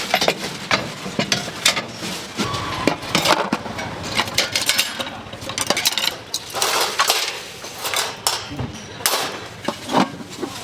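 Irregular clatter of kitchen work: sharp knocks and metallic clinks of utensils and cookware, several in each second.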